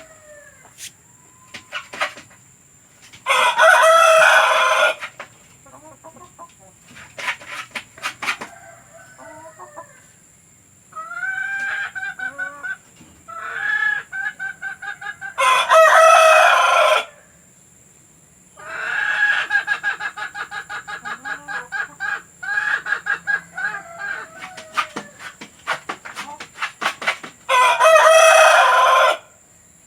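Domestic chickens: a rooster crows three times, about twelve seconds apart, and hens cluck in quick runs of short notes between the crows.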